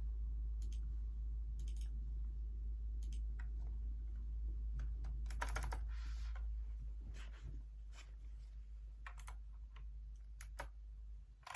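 Hacker K611 keyboard with Kailh optical switches being typed on in scattered, unhurried keystrokes, with a quick run of several keys near the middle. A steady low hum lies underneath and fades away near the end.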